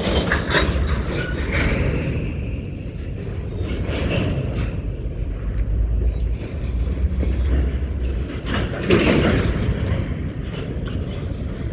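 Freight train in a railyard: a steady low rumble of rolling railcars with metallic clanks near the start, about four seconds in and about nine seconds in, and a brief high squeal early on.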